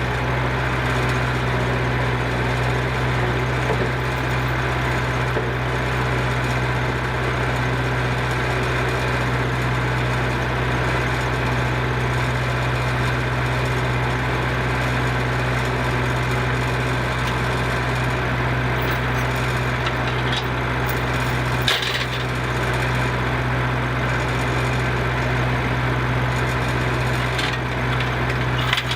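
Engine running steadily at constant speed, with two sharp knocks in the last third.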